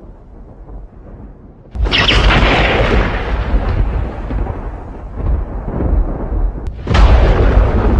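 Two close lightning strikes: a sudden sharp thunderclap about two seconds in that fades into rolling rumble, then a second sharp clap near the end.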